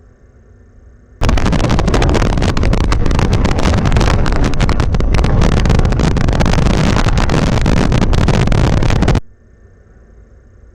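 Strong wind buffeting the nest camera's microphone: a loud rushing noise that starts abruptly about a second in, holds for about eight seconds and cuts off suddenly.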